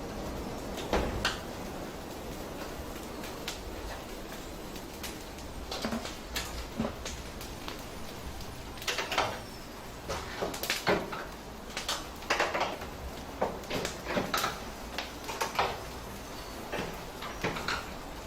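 Irregular knocks, clicks and clatter of handling in a kitchen, spaced unevenly and growing busier partway through, over a steady low hum.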